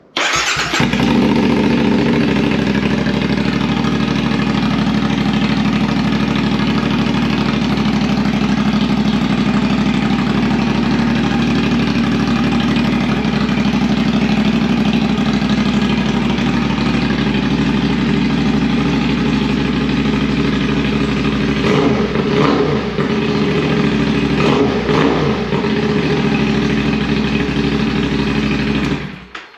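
CFMOTO 450SS parallel-twin engine starting and idling steadily through a newly fitted aftermarket slip-on exhaust. A few short throttle blips come about three-quarters of the way in, and the engine is switched off shortly before the end.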